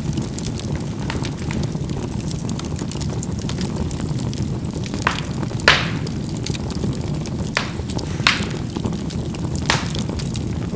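Charcoal burning in a fireplace: a steady low rumble of the fire with a handful of sharp crackling pops as the charcoal bursts, the loudest a little past halfway, and faint ticks between them.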